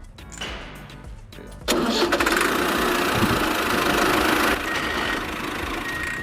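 A motor starts suddenly about a second and a half in and runs loudly and steadily, easing down a little near the middle. This is likely the drive of the miniature tractor or concrete mixer. It follows a short stretch of background music.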